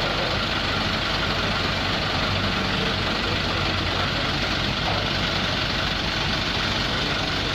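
Truck crane's engine running steadily at a low, even pitch.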